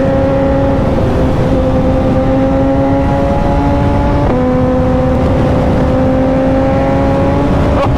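Suzuki motorcycle engine pulling under acceleration, its pitch climbing slowly. About four seconds in the pitch drops sharply as it shifts up a gear, then it starts climbing again.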